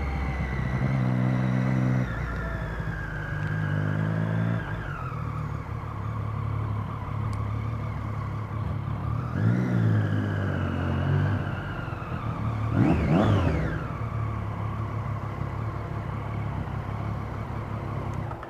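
Motorcycle engine running under way through traffic, its pitch climbing and dropping back several times as it accelerates and shifts gear, with the sharpest rev about 13 seconds in.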